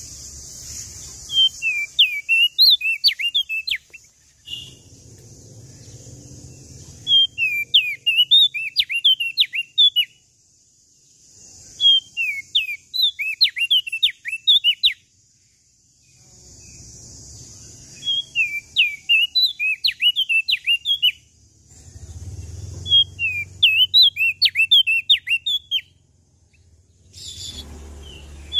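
Opior jambul, the crested darkeye, singing in repeated phrases of quick, sweeping chirps. Each phrase lasts about two to three seconds and comes roughly every five seconds, with a steady hiss between phrases.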